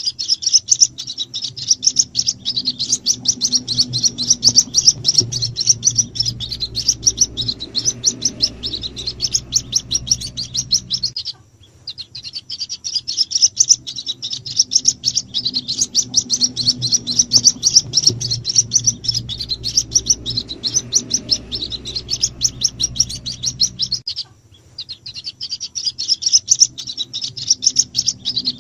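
White-breasted waterhen chicks calling: a dense stream of rapid, high cheeps over a low hum, breaking off briefly about 11 and 24 seconds in before starting again. These chick calls are used as a lure to draw in the parent birds.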